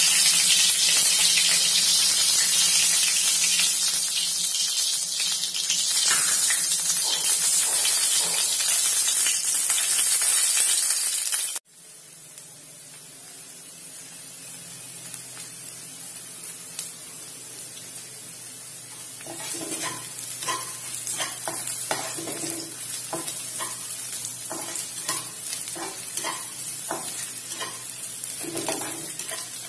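Hot oil sizzling loudly in a non-stick kadai with a cinnamon stick and bay leaves in it, cutting off suddenly about twelve seconds in. After that, sliced onions fry with a softer sizzle, and a spatula stirs and scrapes them around the pan from about two-thirds of the way through.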